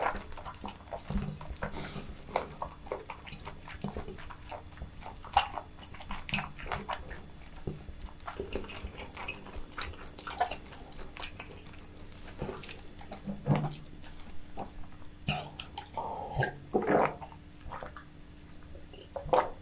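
Close-miked wet chewing with the mouth closed: irregular smacks, squelches and clicks of a person eating chewy food.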